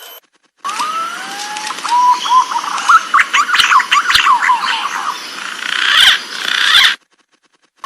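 Recorded green pigeon (punai) calls used as a lure: whistled notes gliding up and down, with a burst of quicker chirping notes in the middle. The recording breaks off briefly near the end and starts over.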